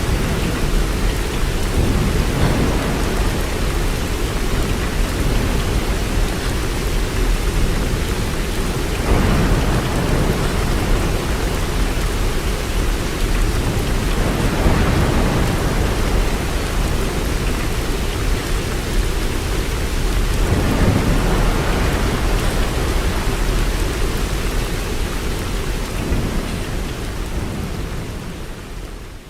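Steady heavy rain, with low rumbling swells every five or six seconds, fading out near the end.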